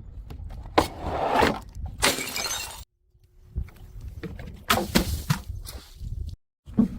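Glass bottles smashing, several separate breaks, each a sharp crack followed by crunching and scattering shards, with two brief dead-silent gaps between them.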